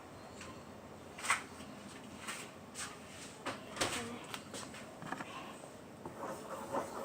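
Scattered light knocks and clicks of household handling, about a dozen short ones, the loudest about a second in.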